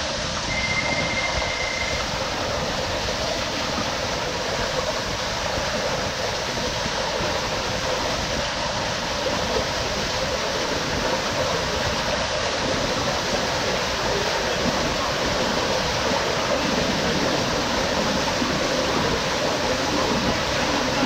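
Steady rushing noise of water running down a waterslide, growing slightly louder over time, with a short high beep about half a second in.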